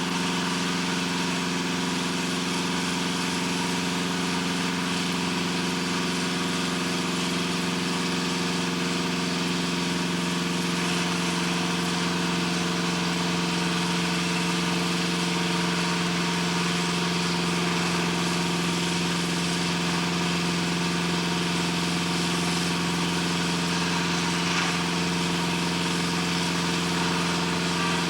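Steady machinery drone: a constant low hum with several fixed tones over a broad hiss, unchanging throughout.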